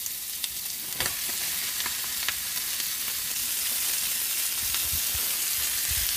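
Onion and bell-pepper strips sizzling in a hot cast-iron skillet, with a few sharp clicks from a wooden spoon. Raw beef goes into the pan on top of the vegetables, and the sizzle carries on steadily.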